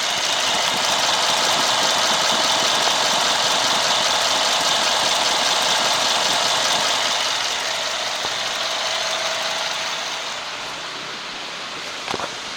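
2012 Mercedes-Benz ML550's 4.6-litre twin-turbo V8 engine running steadily, easing off somewhat about two-thirds of the way through, with a couple of clicks near the end.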